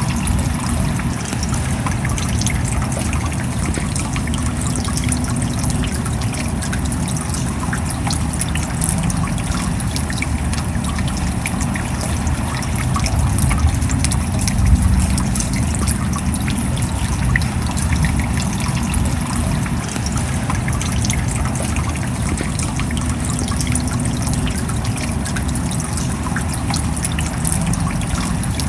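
Steady rain, a dense scatter of small drop ticks over an even hiss with a low rumble beneath, swelling slightly about halfway through.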